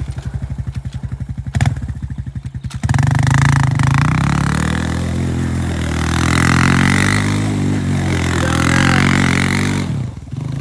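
Pit bike engine idling with an even, rapid putter, then opened up about three seconds in and held at high revs with its pitch rising and falling, dropping back near the end.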